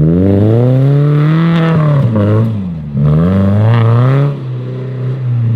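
Off-road 4x4's engine revving hard in two surges, its pitch climbing and falling each time, then settling to a lower, steadier run near the end.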